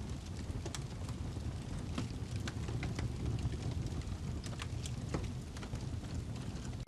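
Wood fire burning in a fireplace, crackling with frequent sharp pops at irregular intervals over a steady low rumble.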